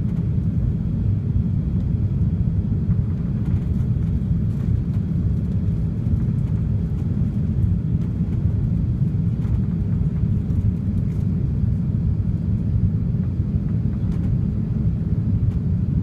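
Steady low rumble of engine and airflow noise heard inside the upper-deck cabin of an Airbus A380-800 during its takeoff and climb, with a few faint ticks.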